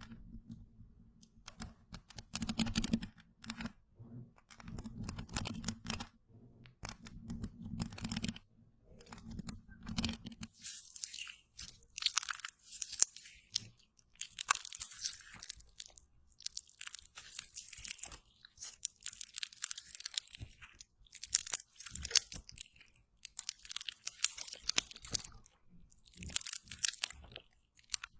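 Slime being wiped across a surface: short wet, crackly strokes in clusters. From about ten seconds in the strokes turn brighter and crisper, coming in bursts roughly every two seconds.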